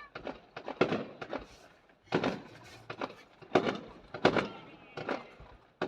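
Fireworks shells bursting overhead: about six separate booms spaced roughly a second apart, each trailing off in a short echo.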